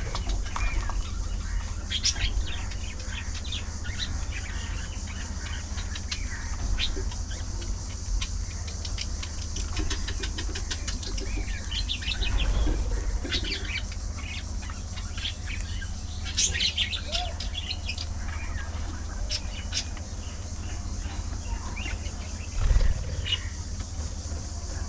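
A flock of budgerigars chirping and chattering with many short, high calls over a steady low rumble. There is a single thump near the end.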